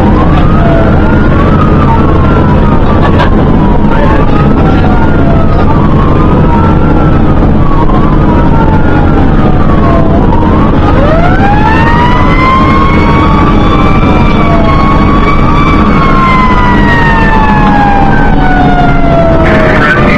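Fire engine siren sounding over the truck's running engine. For about ten seconds it sweeps up and falls back roughly every two seconds. From about eleven seconds in it gives one slow long rise and a gradual fall, with two siren tones overlapping.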